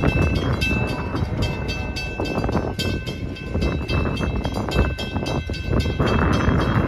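A train running past close by: a heavy rumble with a rapid clatter of wheels over rail joints, and high steady tones that come and go.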